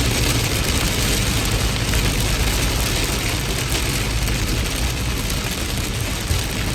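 Heavy rain falling steadily: an even hiss with a deep, steady rumble underneath.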